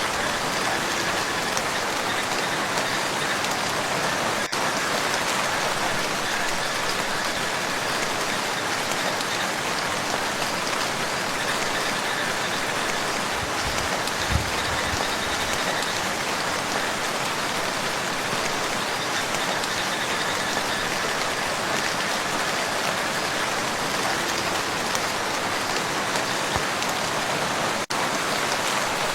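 Steady rain falling on a lake's surface: a dense, even hiss of countless drops, with two momentary dips in level, about four seconds in and near the end.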